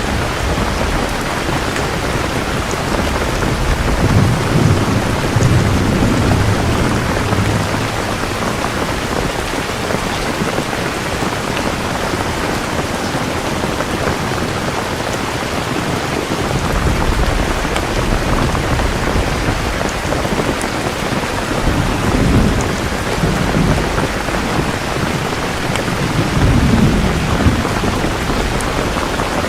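Steady heavy rain falling, with rolls of distant thunder rumbling low several times, around four to seven seconds in, and again twice near the end.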